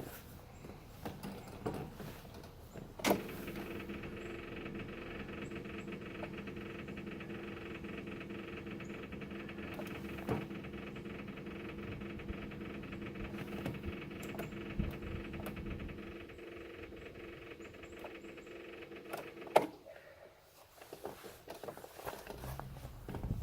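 Mini excavator machinery running with a steady hum of several fixed tones. It starts right after a click about three seconds in and stops after another click near the end, leaving only scattered knocks and clicks.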